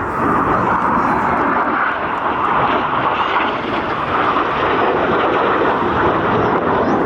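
Jet noise from BAE Hawk T1 display jets flying overhead, a steady, even rushing sound with no breaks.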